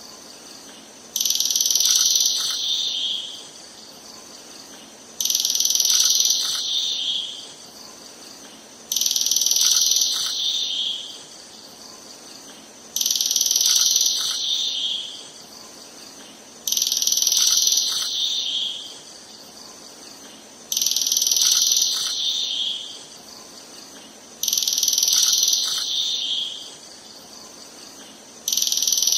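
A high, buzzy animal call about two seconds long, dropping a little in pitch as it fades. The same call repeats about every four seconds, each one alike, as in a looped recording.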